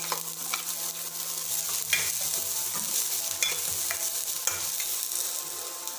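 Chopped onion and garlic sizzling in hot oil in a stainless steel kadai while being stirred, the utensil scraping and knocking against the pan several times.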